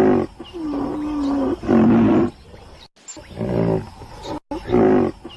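An animal calling: loud pitched calls, one held for about a second in the middle, with the sequence of calls repeating.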